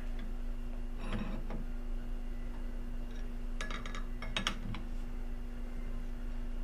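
Short metallic clinks and clicks of a lathe's four-jaw chuck being adjusted, a few about a second in and a quick cluster about halfway through, over a steady low hum.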